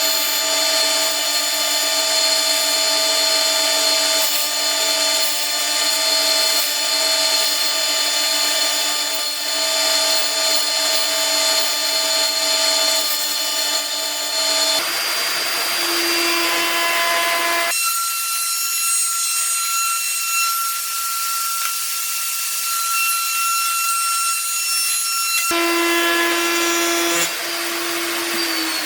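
Bandsaw running and cutting a wooden blank freehand, a steady machine whine with sawing hiss. The sound changes abruptly several times, and just before the end the pitch starts to fall as the motor winds down.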